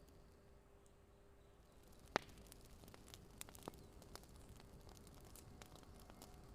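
Faint crackling fire: a few sparse, sharp pops, one louder about two seconds in, over a low steady hum.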